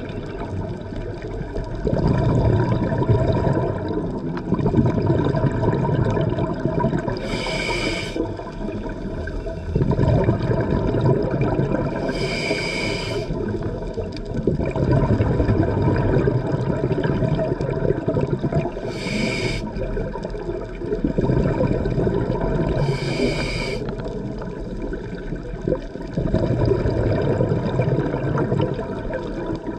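Scuba diver breathing through a regulator underwater. There are four short, high hissing inhales, and each is followed by several seconds of rumbling, bubbling exhale.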